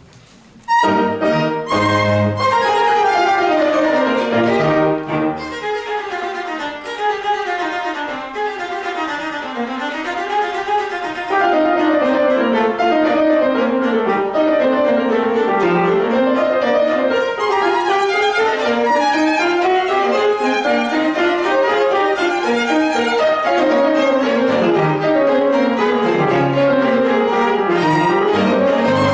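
A piano quartet of piano, violin, viola and cello starts playing classical chamber music a little under a second in, with strong opening chords and then flowing figures that rise and fall.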